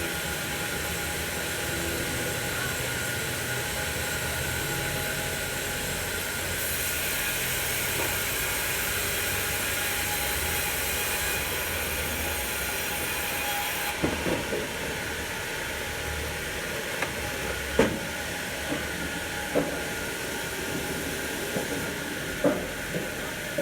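Sawmill machinery running with a steady mechanical hum and hiss, and a faint high whine over it for a while in the first half. In the second half, several sharp knocks ring out at irregular intervals.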